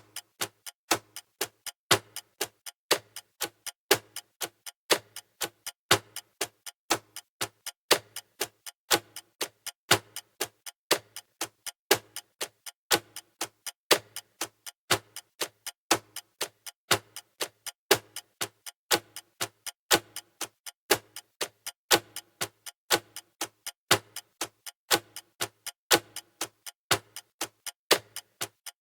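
Clock ticking sound effect: sharp, even ticks at a steady rate of several a second, the running tick of a countdown timer.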